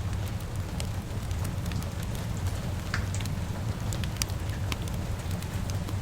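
Crackling wood fire, irregular sharp pops and snaps a few times a second, over a steady low rumble and a soft hiss of rain.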